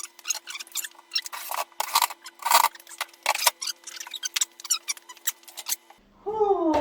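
Rapid, irregular clicks and rattles of metal parts and tools being handled while the tumble dryer's casing is refitted after the belt and pulley repair. About six seconds in this cuts off abruptly and a voice starts humming a tune.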